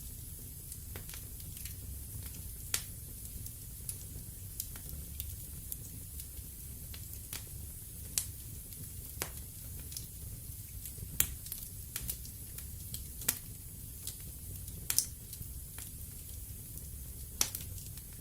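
Wood fire crackling in a fireplace: a steady low rumble of flames with irregular sharp pops and snaps from the burning logs. The loudest pops come about eleven and fifteen seconds in.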